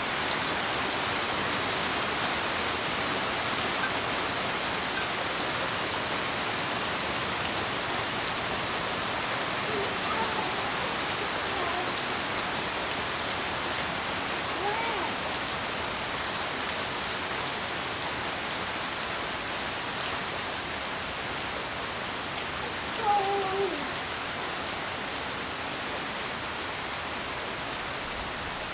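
Steady rain falling, an even hiss of drops on surfaces, with a few faint short voice-like sounds and one louder brief one about two-thirds of the way through.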